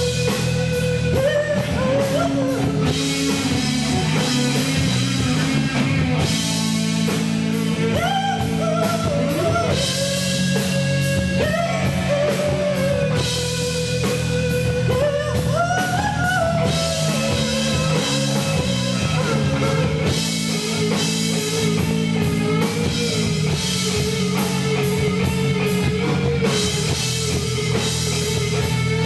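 Live rock band playing: a held, bending lead melody line, most likely electric guitar, over drum kit and bass, in a poor-quality amateur recording.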